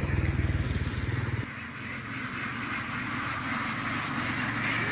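A large flock of domestic ducks quacking together in a dense, continuous chatter. An engine runs underneath for about the first second and a half, then drops away.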